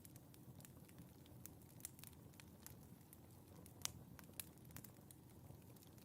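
Wood fire in a fireplace crackling: quiet, scattered pops and snaps over a low, soft rumble, with two sharper pops about two thirds of the way in.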